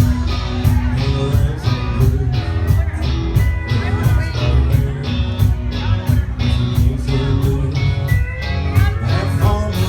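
Country rock band playing, with drums keeping a steady beat under bass and guitar.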